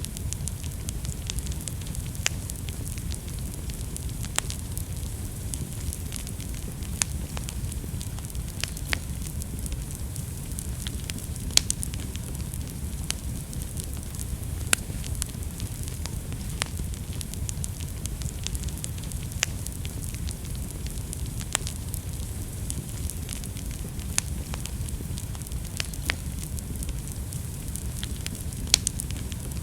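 Wood fire burning in a fireplace: a steady low rumble and hiss with sharp crackles and pops at irregular intervals, a few louder pops standing out.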